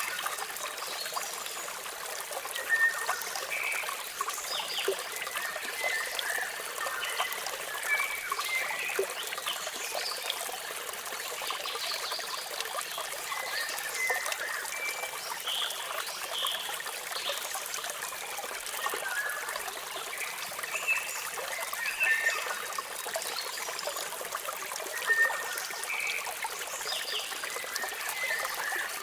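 Waterfall with a steady rush of falling water, and short, high bird chirps scattered throughout.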